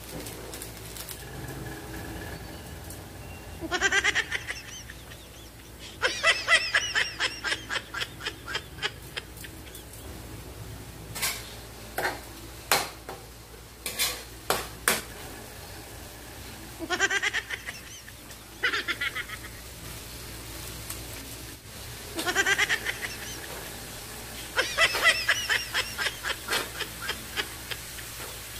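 Loud bird-like calls, some rising in pitch at the start and some in fast pulsing runs, repeated several times over a low steady background. A few sharp metal clinks of a spatula against a wok come in the middle.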